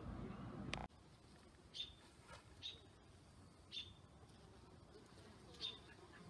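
Low room tone that cuts off with a click just under a second in, then a quiet outdoor background with a bird's short, high chirps, four of them spread irregularly over the next few seconds.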